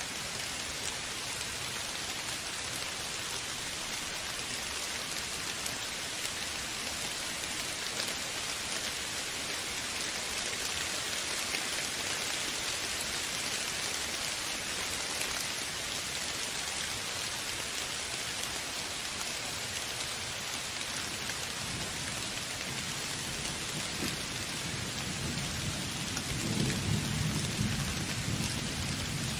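Steady heavy rain falling, with a low rumble of thunder building over the last few seconds.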